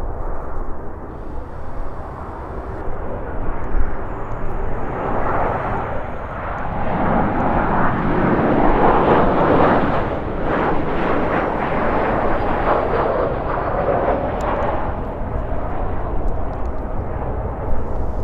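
Airliner passing, its engine noise swelling to a peak about halfway through and then fading, with a faint high whine. Strong gusting wind buffets the microphone throughout as a deep rumble.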